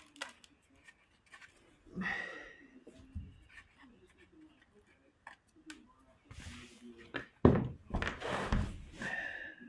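Hand tools being handled while working on a dirt bike's skid plate: scattered light clicks and clinks, a few rustles, and a loud thunk about seven and a half seconds in.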